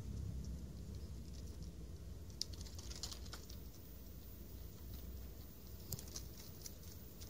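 Kittens scrambling about, their claws making faint scattered scratches and clicks in two short clusters, over a low steady rumble.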